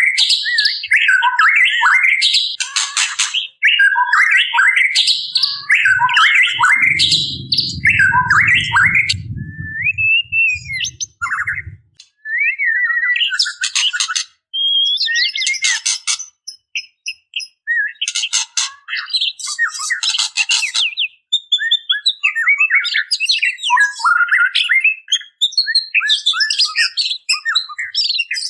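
Female white-rumped shama calling in breeding condition, the call used to draw a male: quick bursts of chirps and whistled glides mixed with dry rattling ketrek notes, in phrases broken by short pauses. A low rumble runs under the calls for several seconds about a quarter of the way through.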